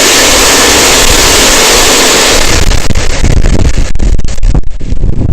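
Loud noise on a mountain biker's camera microphone riding downhill in a hail storm. It starts as a steady rushing hiss, then about halfway through turns to rough rumbling buffeting with dense rattling knocks, and cuts off suddenly at the end.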